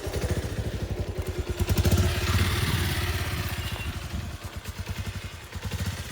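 Motorcycle engine running with a rapid, even beat, getting louder about two seconds in and then easing.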